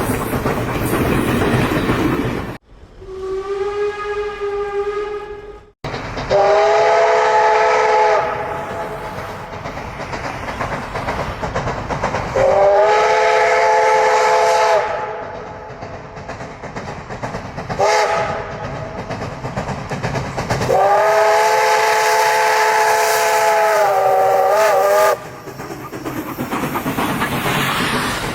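Steam locomotive whistles over the steady hiss and rumble of a running train: first a single-note blast that cuts off abruptly, then a chime whistle sounding a chord of several notes in four blasts: a short one, a longer one, a brief toot and a long final blast that wavers at its end.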